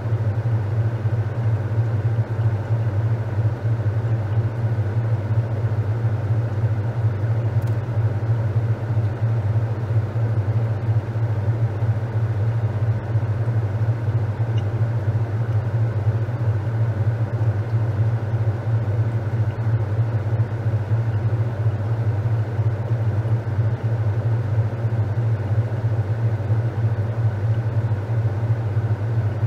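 Top-loading washing machine running with a steady low hum and a constant wash of noise above it, unchanging throughout.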